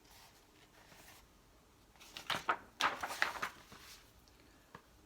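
Paper pages of a picture book being handled and turned: a short run of rustles and light taps about halfway through, then a single faint click near the end.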